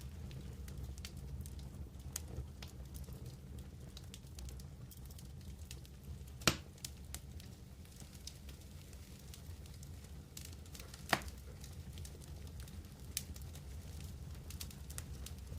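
Wood campfire crackling: a steady low rumble with many small scattered crackles, and two sharp, louder pops about six and eleven seconds in.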